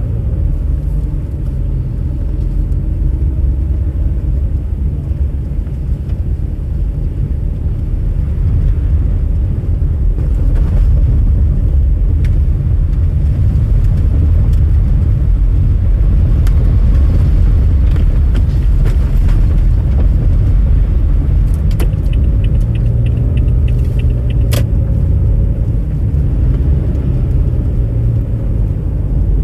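Steady low rumble of a car driving, with a few faint clicks near the end.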